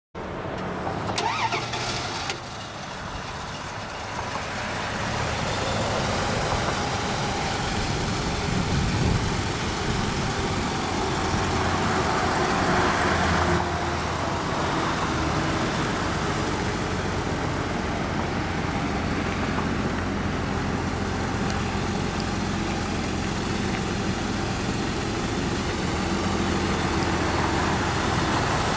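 1988 Dodge Dakota's V6 engine starting after a brief crank, then running and settling into a steady idle.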